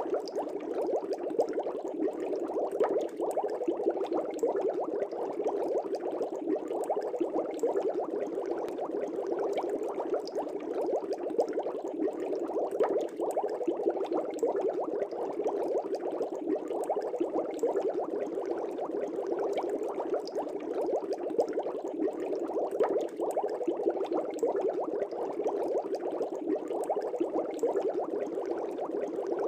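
Aquarium air bubbles rising and breaking at the water surface in a fish tank: a steady, dense bubbling with many small pops.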